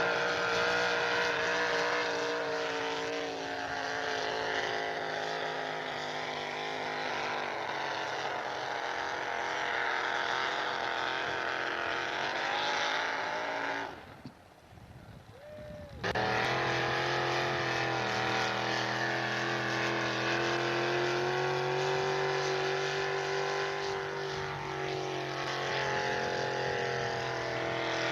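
Pulling truck's engine running hard at high, steady revs, its pitch drifting slowly downward. The sound drops out for about two seconds halfway through, then the engine sound picks up again.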